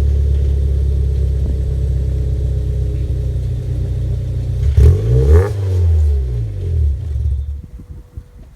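Supercharged Mazda MX-5 with an aftermarket exhaust driving past, the engine and exhaust rumble building to its loudest a little past halfway, then fading out fast.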